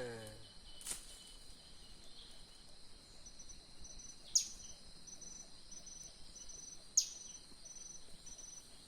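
Forest insects shrilling steadily in high, evenly pulsing trills. Twice, about two and a half seconds apart, a sharp whistle-like note sweeps quickly downward and stands out as the loudest sound.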